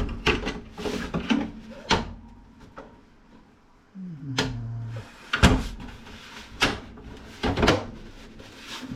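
Scattered knocks and clicks of monitor parts being handled and set down on a work surface, with a short low creak that drops in pitch about four seconds in.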